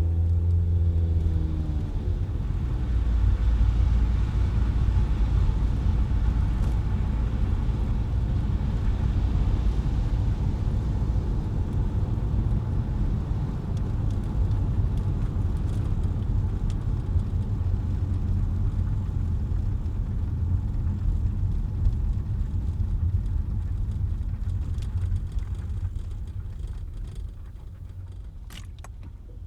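A car's steady low rumble of engine and road noise while driving. In the first couple of seconds the engine's pitch bends and settles. A few faint clicks come near the end.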